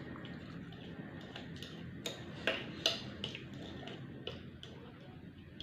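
Close-up eating sounds: irregular crisp clicks and crunches of chewing, loudest in a cluster a little past the middle, over a steady low hum.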